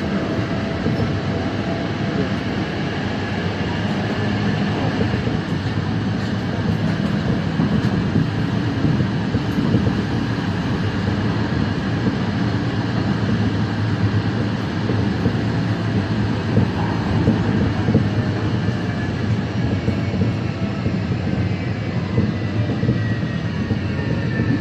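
Busan Metro Line 2 subway train running between stations, heard from inside the car: a steady rumble of wheels on rails. Near the end a faint high whine falls in pitch.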